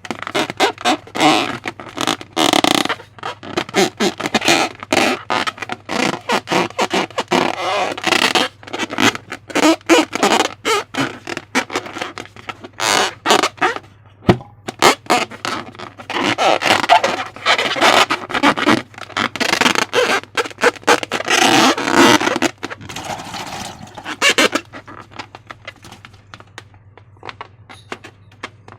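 Slime being squished and stretched by hand: rapid, irregular wet squelches and sticky crackles, thinning out over the last few seconds.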